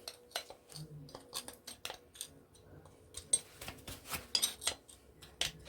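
Irregular small clicks, taps and scrapes of a flathead screwdriver working at the metal and plastic parts of a kitchen extractor fan motor, prying its middle piece out.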